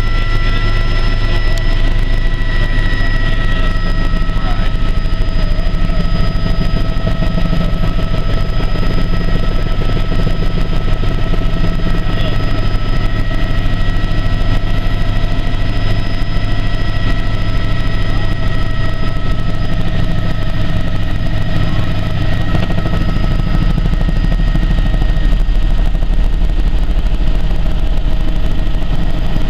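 Tour helicopter in flight heard from on board: a steady, loud drone of rotor and engine with a constant high whine over it.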